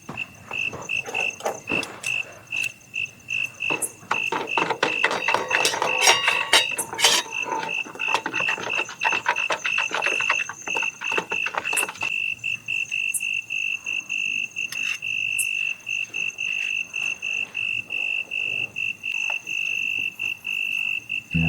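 Night insect chirping, a single high note repeated in fast, even pulses. Dense crackling and rustling from about four to twelve seconds in is louder than the chirping.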